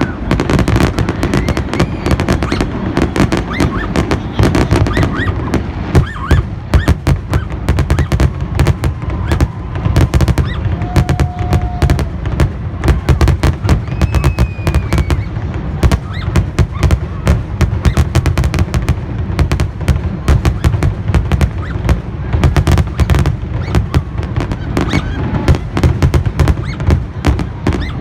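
Fireworks display going off in a dense, continuous barrage of bangs, many per second, over a deep rumble.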